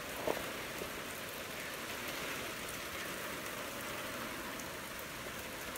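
Steady rain falling on the yard and porch roof, the rain ahead of an approaching hurricane. A single short tap sounds just after the start.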